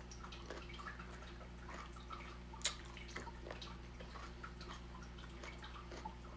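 Wet chewing of a mouthful of mango, cucumber and tomato salad: soft, scattered mouth clicks and squelches, with one sharper click about two and a half seconds in.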